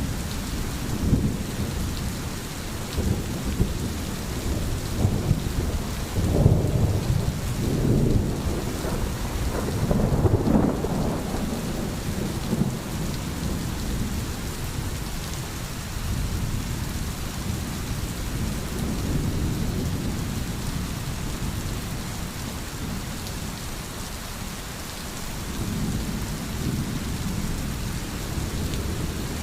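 Steady rain with low rolling thunder that swells twice, about six and ten seconds in.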